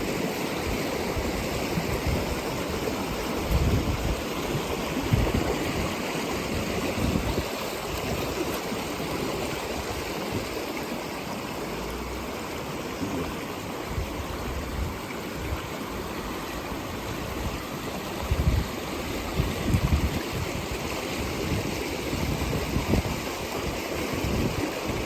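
Fast-running water of a small creek swollen by heavy rain, rushing steadily over rocks and the eroded roadside. Irregular low thumps sound over it.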